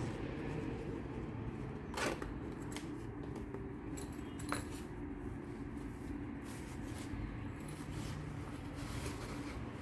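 Small stationery items being handled and unpacked by hand: light rustling and ticks, with two sharper clicks about two and four and a half seconds in, over a steady low hum.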